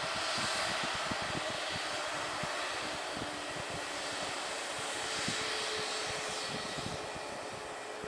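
Airliner engines running steadily: an even rushing noise with faint steady whining tones.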